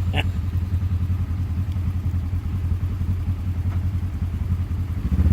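Polaris RZR side-by-side engine running steadily with a low rumble, holding an even pace with no revving.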